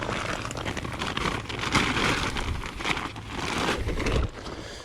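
Crinkling and rustling of a carp weigh sling's fabric being handled as a fish is put into it, with short scuffs and knocks throughout.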